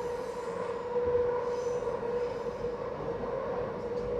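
Busan Metro Line 3 train running, heard from inside the car: a steady rumble of wheels on track with a steady tone held throughout.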